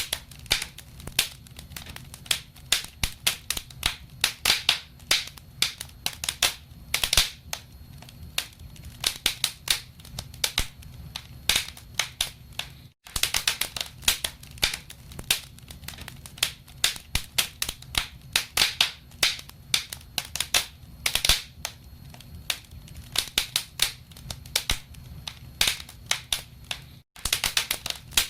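Wood fire crackling in a fireplace: a dense run of irregular sharp pops and snaps over a low steady rumble, broken by two momentary silent gaps.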